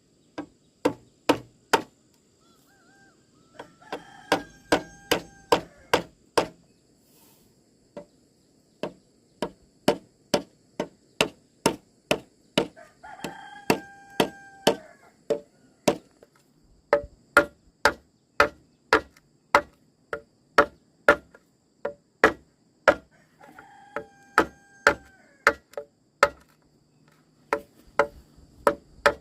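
Steady chopping blows, about two strikes a second, pausing briefly about seven seconds in. A rooster crows three times in the background.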